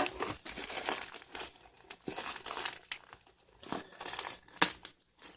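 Mailing package being torn and opened by hand: irregular crinkling and rustling of its wrapping, with a sharp crackle about four and a half seconds in.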